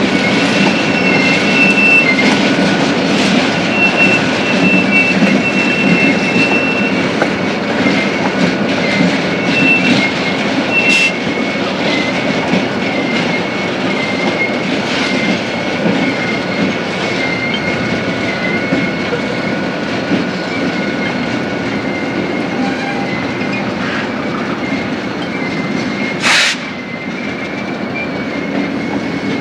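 Freight cars rolling slowly during yard switching: a steady rumble and clicking of wheels over the rails, with a thin, steady high wheel squeal. About 26 seconds in there is one short, loud burst of noise.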